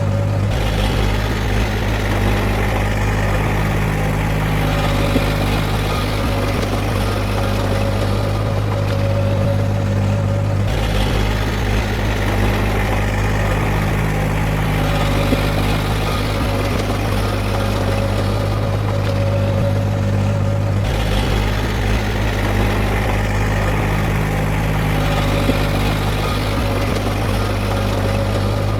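Heavy diesel engine of earthmoving equipment running steadily at an even pitch, with a strong deep hum. The tone shifts abruptly twice, about ten seconds apart.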